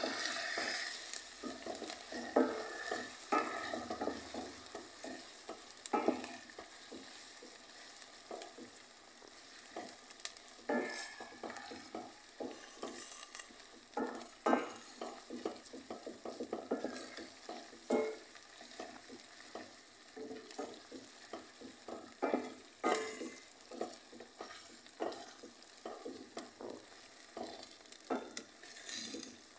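Onion, ginger and garlic frying in oil in a stainless steel pot, sizzling steadily while a spoon stirs them, scraping and tapping against the pot in irregular strokes.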